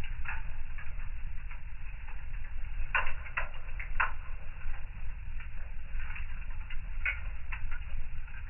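Wood fire in a fireplace crackling, with irregular pops and snaps over a low steady rumble of the flames. A quick run of louder pops comes about three to four seconds in.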